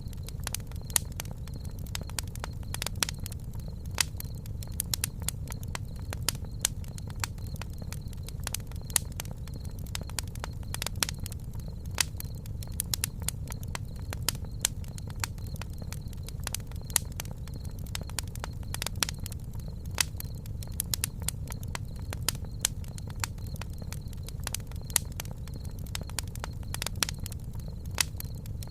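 Campfire burning: irregular sharp crackles and pops over a steady low rumble.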